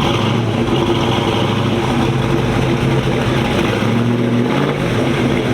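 A car engine running steadily at idle, a low, even drone.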